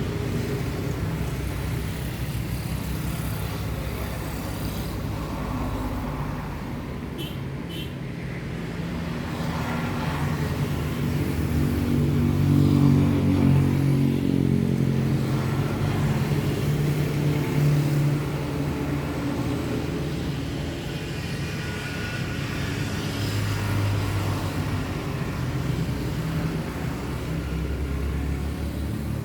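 Low engine hum of road traffic, swelling as a vehicle passes about halfway through.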